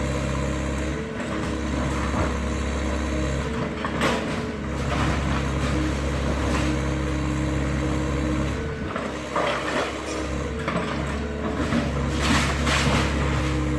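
Excavator's diesel engine running steadily, with a few brief louder noisy bursts from the demolition work about 4, 9 and 12 seconds in.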